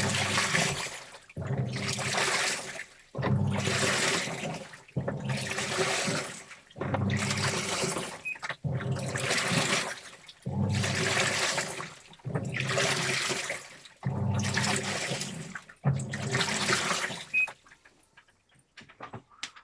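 Washing machine mid-wash: water and wet clothes slosh in the turning drum in regular surges about every two seconds. The surges stop near the end, leaving a few faint drips.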